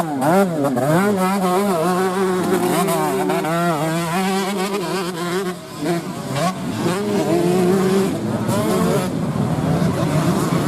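Several racing motorcycle engines revving on a dirt track. Their pitch rises and falls again and again as the throttles open and close, with a brief drop in loudness about five and a half seconds in.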